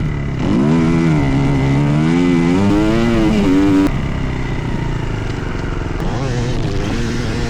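Dirt bike engine running, its revs rising and falling, loudest in the first half; the sound changes abruptly about four seconds in and runs on lower.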